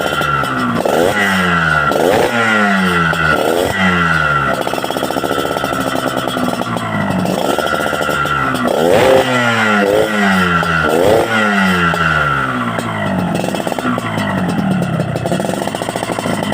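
Yamaha RX-King's two-stroke single-cylinder engine being revved through an aftermarket RAS Exhaust 'SR' blue-tip pipe, in a string of quick throttle blips that jump up in pitch and fall back, with slower, longer revs near the end.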